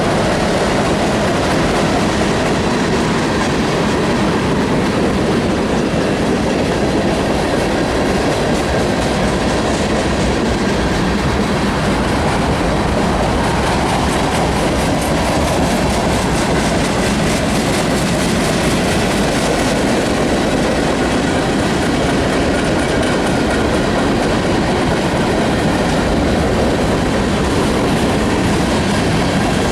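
Norfolk Southern freight train rolling steadily past, its freight cars making a continuous loud rumble on the rails.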